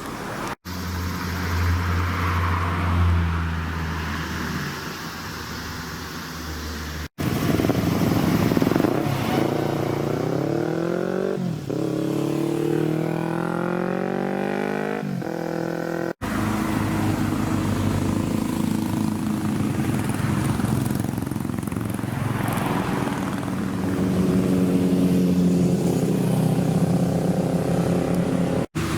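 Car engines in a series of short clips. First an engine runs steadily at a low pitch. Then one accelerates hard, its pitch rising, dropping briefly at a gear change and rising again. Near the end, engines run steadily again.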